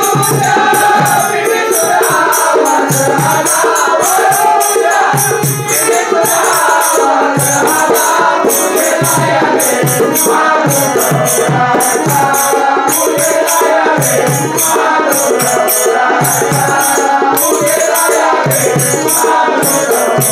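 Instrumental interlude of a Marathi bhajan: harmonium playing the tune over a dholki drum beat, with a rattling percussion keeping time about twice a second.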